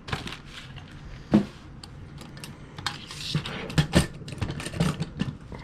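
Handling noises from a Williams GG1 model locomotive and its box: a string of light clicks and taps, with a sharper knock about a second and a half in.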